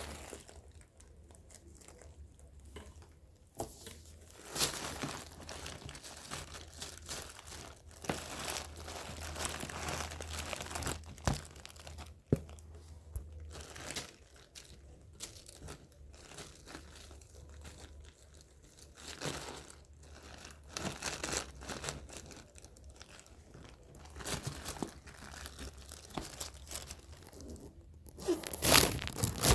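Irregular crinkling and rustling, like crinkly material being scrunched or torn, louder toward the end.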